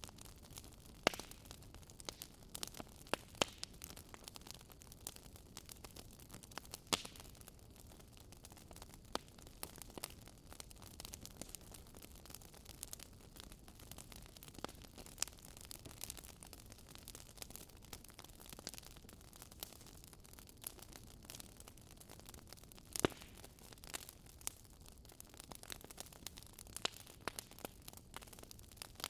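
Wood campfire crackling softly, with irregular sharp pops over a steady faint hiss. The loudest pops come about a second in, near three and seven seconds, and about twenty-three seconds in.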